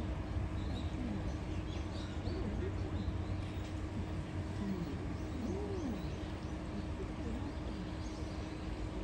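Faint low cooing calls, a scattered series of short notes that rise and fall in pitch, over a steady low hum. A few faint high chirps sound now and then.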